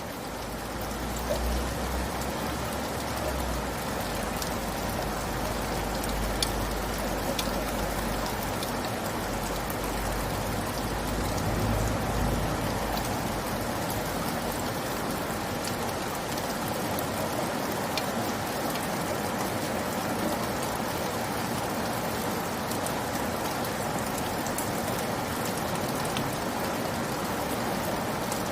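Steady rain falling on a surface, with scattered sharp drop ticks. It fades in over the first second or so. A low rumble sits underneath for about the first half.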